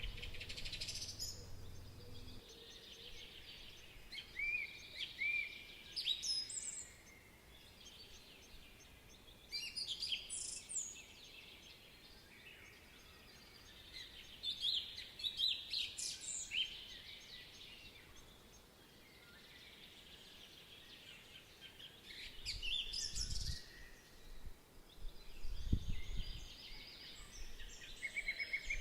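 Songbirds singing in short, rapid warbled phrases that recur every few seconds, with two dull low thumps late on.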